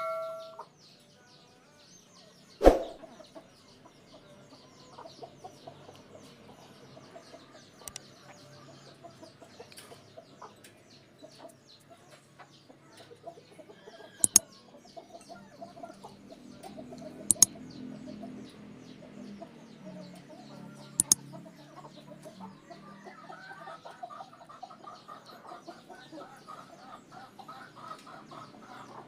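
Fowl clucking in the background, with one sharp knock about three seconds in and a few sharp clicks later on.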